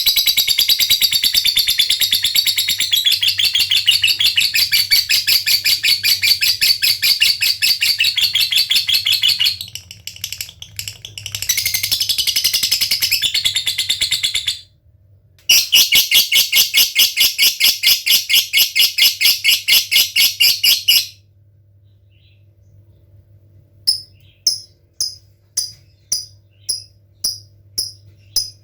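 Lovebird giving long, very fast chattering trills (ngekek) in three runs broken by short pauses. After a few seconds of near quiet these give way to separate sharp ticking notes (ngetik) that come faster toward the end.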